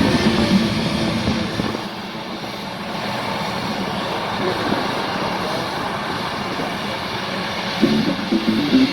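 A-10 Thunderbolt II's turbofan engines running on the ground, a steady rushing noise, after PA music fades out about two seconds in; the music comes back near the end.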